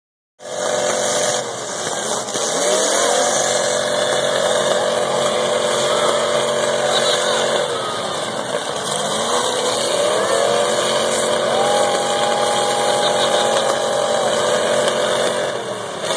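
Demolition-derby car engines revving hard. The pitch climbs about two seconds in and again about eight seconds in, and in between the engines hold at high revs.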